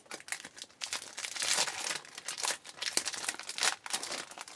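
A trading card pack's wrapper crinkling and tearing as it is opened, with a quick run of small rustles and clicks as the cards are handled.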